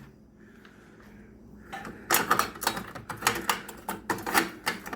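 Irregular run of sharp clicks and rattles, starting about two seconds in, as a motorcycle headlight bezel and its fastenings are worked loose by hand.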